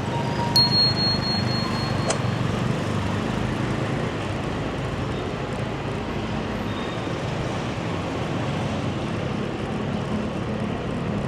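Motorbike engine running steadily while riding through city traffic, with road noise throughout. A brief high tone sounds from about half a second to two seconds in.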